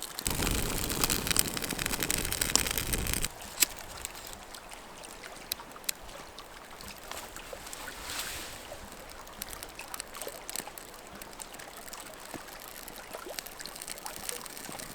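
Kindling of wet wood being lit in a small campfire. A loud rushing noise fills about the first three seconds and stops suddenly. After that the fire hisses faintly, with scattered small crackles and pops.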